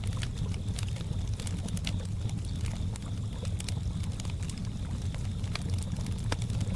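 Campfire crackling: scattered sharp pops and snaps over a steady low rumble. A faint, steady high chirring of crickets runs underneath.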